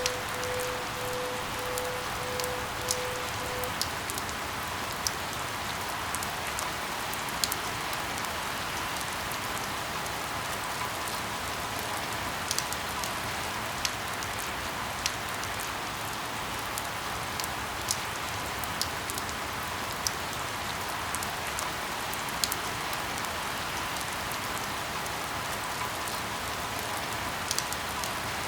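Steady rainfall, an even hiss, with individual drops striking close by as sharp ticks every second or so. A low pulsing tone sounds under the rain for the first few seconds.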